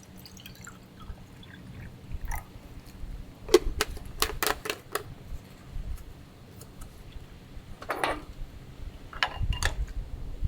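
A quick run of about six sharp clicks or taps a few seconds in, then a few more scattered ones near the end, over a low steady background rumble.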